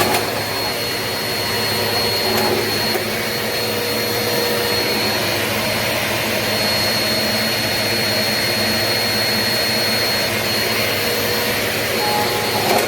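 Eureka NEU350 bagless upright vacuum cleaner running steadily: a rushing of air over a low motor hum, with a thin, high, steady whistle.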